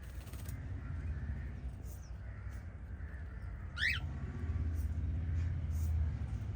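Pet cockatiels and budgies calling: one sharp, quickly warbling chirp about four seconds in, with a few faint high chirps elsewhere. A steady low rumble runs underneath and grows louder in the second half.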